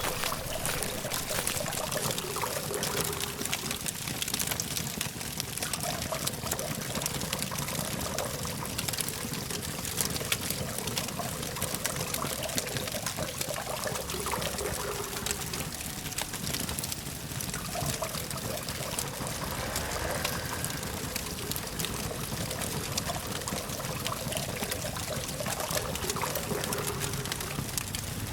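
Campfire crackling steadily with many small sharp pops, over a low, steady hum of distant road traffic.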